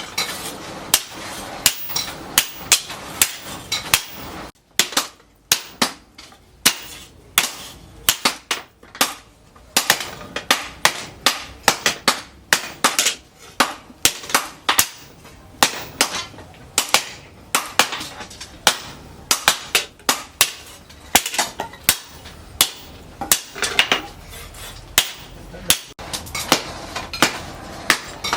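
Hammer blows on steel over an anvil, forging a blade from a piece of tractor disc-plough steel. The strikes come at about two to three a second, each a sharp ringing clang, with a couple of short pauses.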